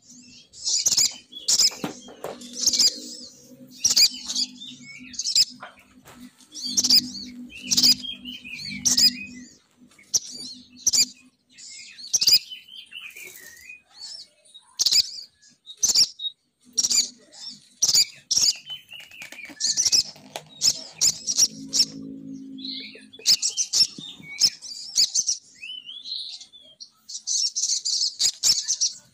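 Female sogon bird lure call: short bursts of high, rapid chirping repeated every second or so, with a low hum underneath for stretches near the start and again in the second half.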